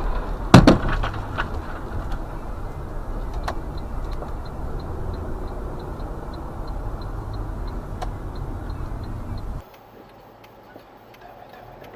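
A loud crash of impact heard from inside a car, followed by a few quick knocks, then the car's engine and road noise running on. Light regular ticking comes in at about three a second. The sound drops away abruptly near the end.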